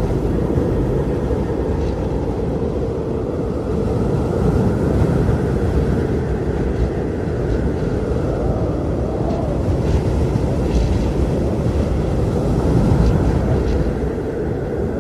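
Blizzard wind blowing hard and steadily, a deep rushing that swells and eases, with a faint howling whistle rising and falling now and then.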